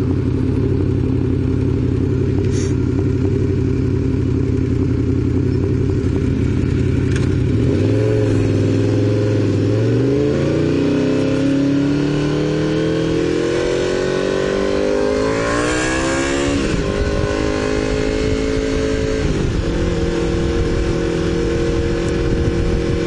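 Honda VFR750's V4 motorcycle engine under way. It runs at a steady pitch at first, then about a third of the way in it accelerates with its pitch climbing. Past halfway the pitch drops at a gear change, and the engine settles into a steady cruise.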